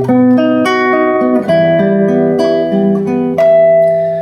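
Acoustic guitar playing the introduction to a bard song: chords picked and strummed, with new notes struck several times a second.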